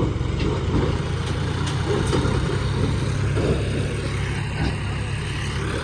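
Heavy diesel engine of a tractor or backhoe loader running steadily at low revs.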